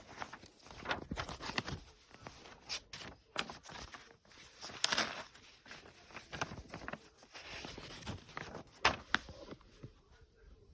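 Handling noise from the plastic parts of a stick vacuum cleaner being fitted together: irregular rustles and sharp clicks, with no motor running.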